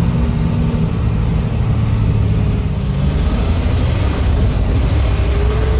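Engine of a Hägglund tracked all-terrain vehicle running steadily.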